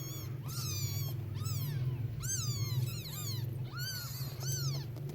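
Young kittens mewing: short, high-pitched, arching cries repeated about two a second, over a steady low hum.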